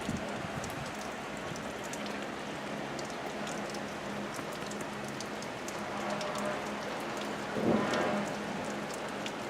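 Heavy thunderstorm rain pouring down, with a dense patter of drops ticking on window glass and a faint steady hum underneath. A brief louder swell comes about three-quarters of the way through.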